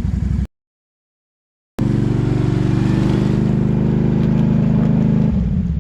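Can-Am ATV's V-twin engine running under throttle, broken by about a second of total silence shortly after the start, then held steady at high revs and easing off near the end.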